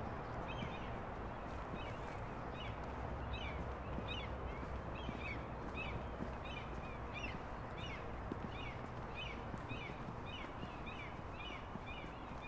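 A small bird chirping over and over, short high chirps a few times a second that come thicker near the end, over a steady outdoor background hiss.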